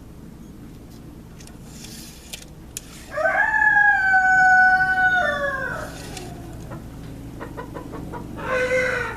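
A rooster crowing once, a long call that rises, holds and falls away, with a shorter bird call near the end.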